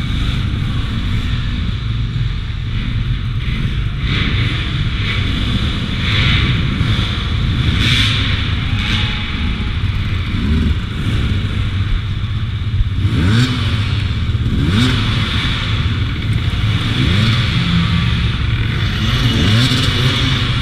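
Beta RR 200 two-stroke enduro motorcycle engine running at low revs on a slow technical section, with several short throttle blips that rise in pitch in the second half. Knocks and clatter come through as the bike rides over tyres and mounts concrete blocks.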